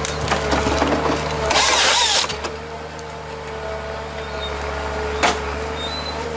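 Wood-working machinery running steadily, with a loud rushing burst of cutting about a second and a half in that lasts under a second, and a single sharp crack near the end.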